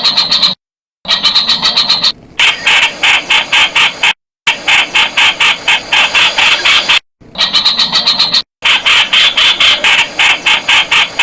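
Streak-eared bulbul calling: rapid trains of short, sharp repeated notes, about seven a second, in bursts separated by brief pauses, some bursts pitched higher than others.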